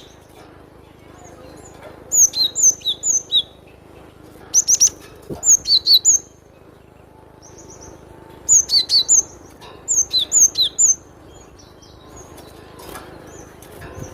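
Cinereous tit (gelatik batu) singing crisp, high, rapidly repeated notes in three bursts a few seconds apart.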